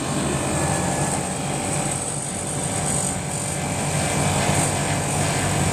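Air conditioner outdoor unit running steadily, its compressor and condenser fan humming; the compressor has started and is running normally.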